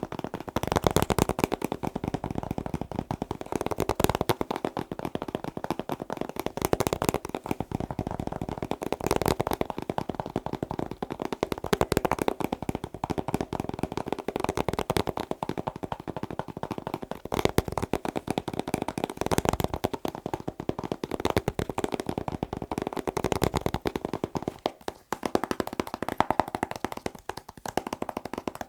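Fast tapping on a hard object, many quick taps a second with hardly a break, easing briefly about 25 seconds in.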